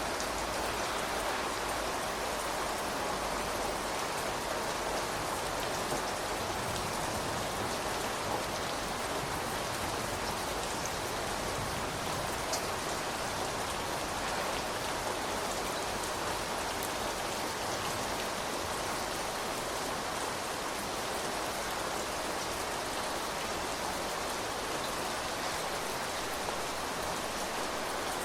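Steady rain falling on surfaces, an even hiss with scattered individual drop ticks.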